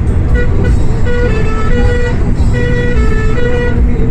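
A bus's musical horn playing a short tune of quick stepped notes, two phrases in a row, over the loud low rumble of the bus running.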